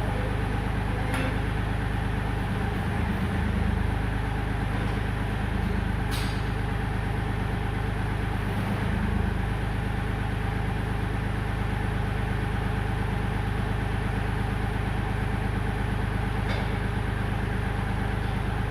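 Kioti compact tractor's diesel engine running steadily, its note swelling briefly twice, about three and nine seconds in.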